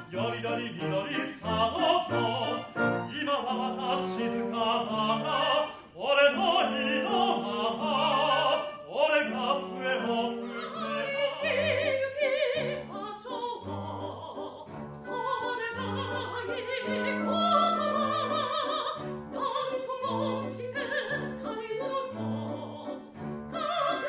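Operetta singing with vibrato over orchestral accompaniment, with sustained bass notes beneath the voice.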